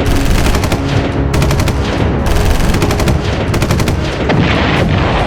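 Loud rapid rattle of repeated bangs like machine-gun fire, running without a break.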